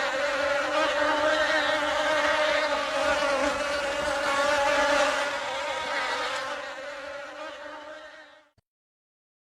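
Insect buzzing in a steady drone that fades out about eight seconds in.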